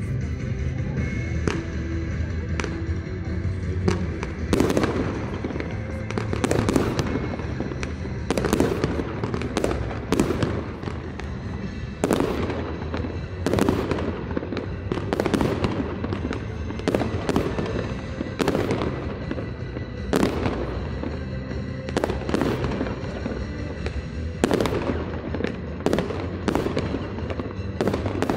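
Fireworks bursting in rapid succession, sharp bangs and crackles every second or so, over a sound-system music track.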